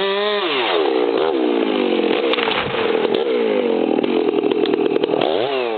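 Chainsaw running at high revs while cutting, its pitch sagging slowly under load. The revs dip and pick up again briefly about a second in and once more near the end.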